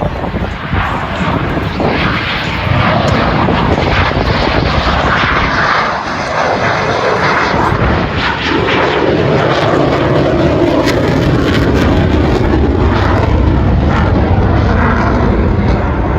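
Loud jet engine noise from F-16 fighter jets flying past, with its pitch falling as they pass, about six to eight seconds in.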